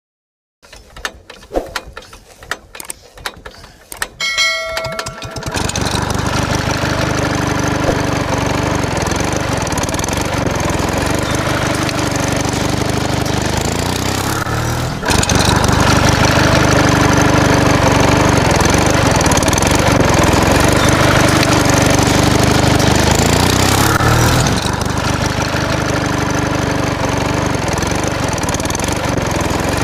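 A few faint clicks, then a small engine starts about five seconds in and runs steadily, with a slow swell in its note every few seconds. It gets louder about halfway through and drops back near the end.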